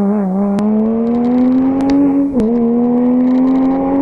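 Porsche Cayman's flat-six engine accelerating hard away up the road, its pitch climbing, with a quick upshift about two and a half seconds in before it pulls on at a steady pitch.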